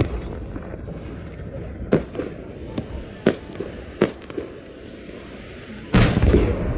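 Aerial fireworks shells bursting overhead: several sharp separate bangs, then about six seconds in a much louder boom that runs on as a rumbling crackle.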